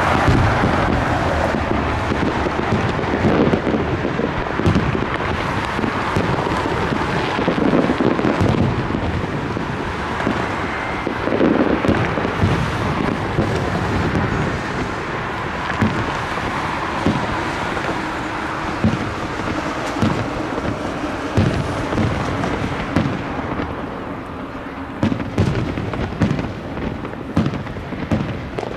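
Fireworks display: aerial shells bursting in quick succession, with booms overlapping into a continuous rolling rumble and crackle. Near the end the bursts come as more separate, sharp bangs.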